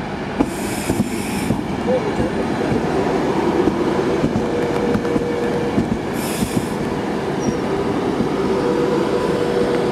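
Passenger train moving along the platform: a steady rumble with wheels clicking over the rails, two short hisses about half a second and six seconds in, and a faint wheel squeal in the second half.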